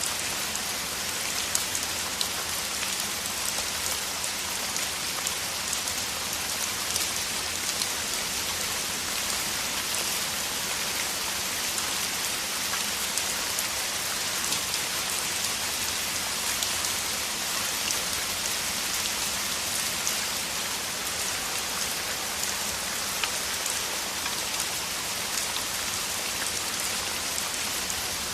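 Heavy rain falling steadily: a dense, even hiss of rain with many separate drop ticks through it.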